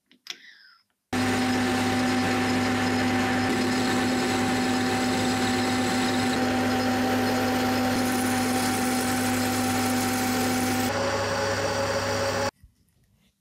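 A workshop power tool or machine-tool motor running steadily, with a constant hum and a dense hiss over it. It starts abruptly about a second in, its tone drops slightly near the end, and it stops abruptly. Just before it, a brief faint clink.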